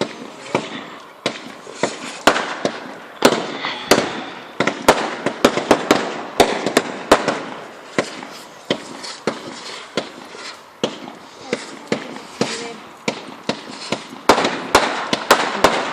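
Fireworks going off, with many sharp bangs in quick, irregular succession over a continuous background rumble.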